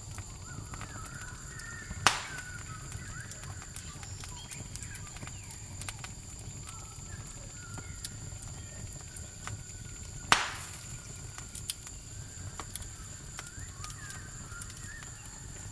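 Campfire crackling with scattered small ticks and two sharp loud pops, about two seconds in and about ten seconds in, over a steady high cricket chirring. Faint wavering animal calls come and go.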